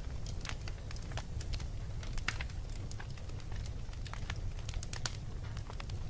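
Wood fire burning in a fireplace, with a steady low rumble of flames and irregular sharp crackles and pops from the burning wood.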